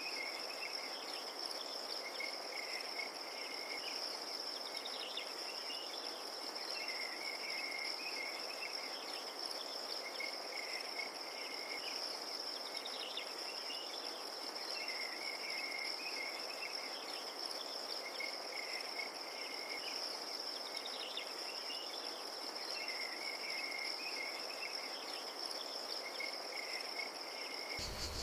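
Night crickets chirping in a continuous high trill, with a second, lower chirping call repeating every second or two over a soft background hiss. The ambience changes abruptly just before the end.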